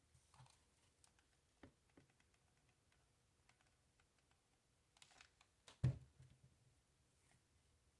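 Quiet handling sounds of hot-gluing jute rope in a coil: scattered light clicks and rustles, with one louder knock about six seconds in.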